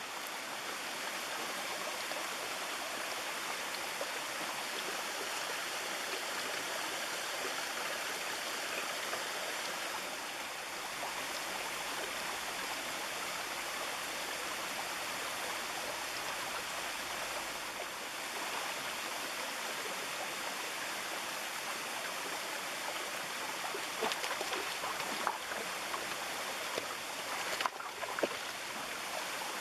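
Mountain stream rushing and splashing over rocks in a steady, even wash of water noise, with a few faint splashes near the end.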